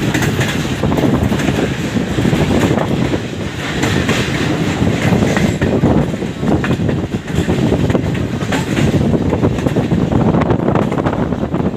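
Moving passenger train: a steady rumble of wheels on the track, with many quick clicks and rattles.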